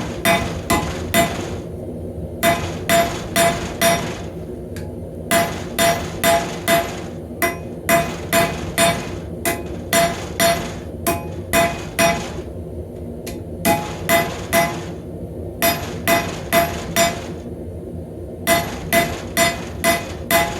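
Hand hammer striking hot rebar on an anvil in steady runs of blows, about two to three a second, with short pauses between runs. Each blow rings briefly, over a steady low hum.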